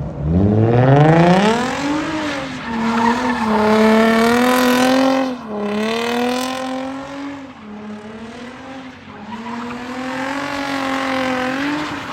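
Infiniti G35 coupe's V6 revving up hard and held at high revs while the car slides around in a spin, its tyres squealing. The revs waver and dip briefly twice around the middle, then climb again.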